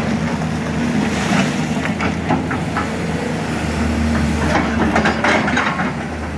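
Sany SY210C-9 hydraulic excavator working: its diesel engine runs steadily under load, its note shifting about four seconds in, with scattered knocks and clatter from the digging.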